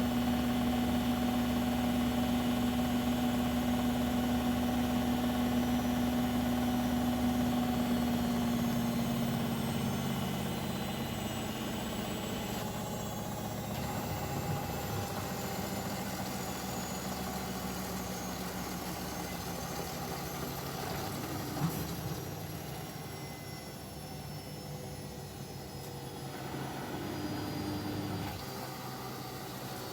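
Bosch Maxx WFL 248Y washing machine running with its drum turning. A strong steady hum fades out after about nine seconds. Its motor whine slowly falls in pitch as the drum slows, and a single sharp click comes about two-thirds of the way through.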